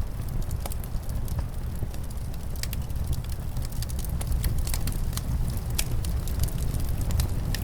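Fireplace crackling, with frequent sharp pops and snaps over a steady low rumble of wind.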